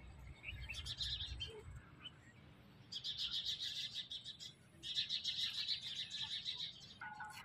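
A flock of small birds chirping in quick, dense runs, with two long spells of chatter in the second half.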